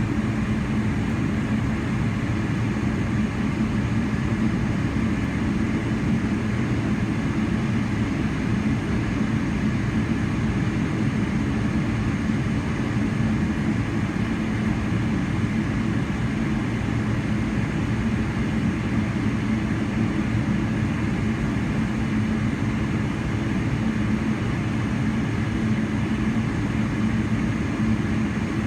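Steady engine and airflow drone of a Boeing 777-300ER heard from inside the passenger cabin, holding an even level throughout with a low hum.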